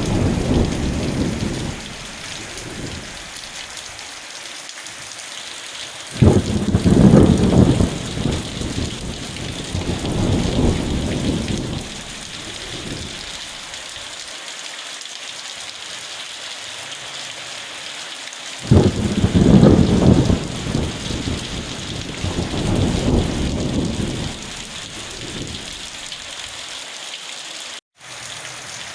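Steady rain falling, with rolls of thunder: one rumble fading at the start, then two thunderclaps that break suddenly about six and nineteen seconds in and rumble away over several seconds each. The sound cuts out for an instant near the end.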